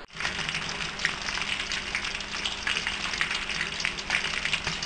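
Sizzling like food frying in a hot pan: a steady hiss full of small crackles and pops. It starts abruptly.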